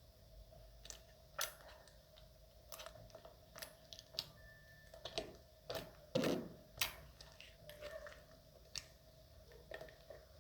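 Stiff clay slime being pressed and squeezed by hand, giving irregular clicks and crackles, with a louder burst of crackling about six seconds in. The slime is too hard. A faint steady hum runs underneath.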